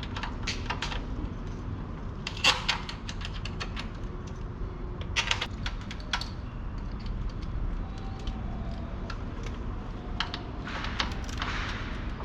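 Scattered light clicks and knocks of car parts and fittings being handled during repair work, over a low steady rumble.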